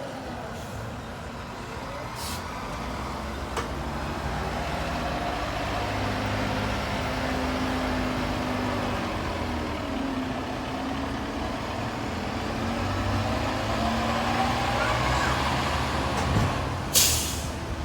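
Fire engine's diesel engine running and revving as the truck pulls away, its pitch rising and falling. A brief sharp hiss of air sounds near the end.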